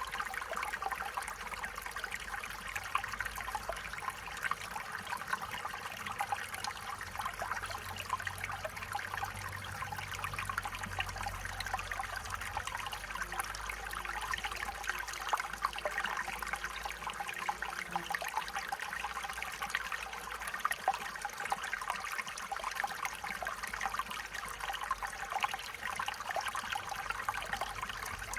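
Stream water running and trickling over stones in a steady babble, with fine splashes and gurgles.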